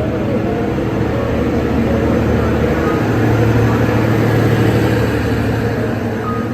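Indian Railways passenger train running, a steady rumble with a low hum that grows louder midway and eases near the end.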